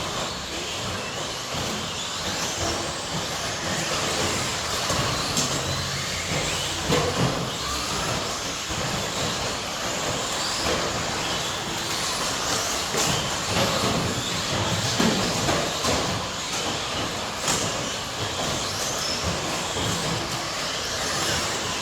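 A field of 1/10-scale electric stadium trucks with 13.5-turn brushless motors running laps, a steady mix of motor whine and tyre noise with occasional knocks.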